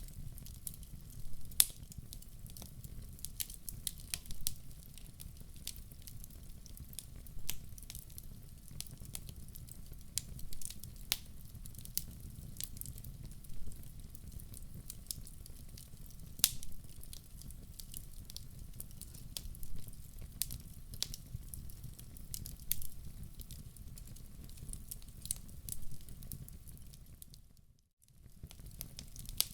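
Wood fire crackling in a fireplace: irregular sharp pops and snaps over a low steady rumble of the burning. Near the end the sound briefly dips almost to silence and comes back.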